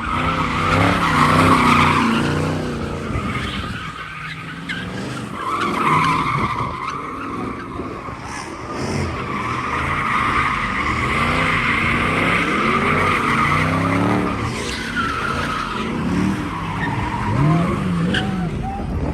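Two cars doing tandem donuts, tires squealing almost without break while their engines rev up and down over and over.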